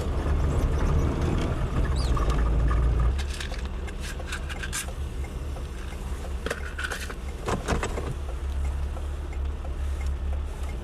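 Car running on the road, heard from inside the cabin as a steady low rumble that drops off sharply about three seconds in, with a few scattered clicks and rattles after that.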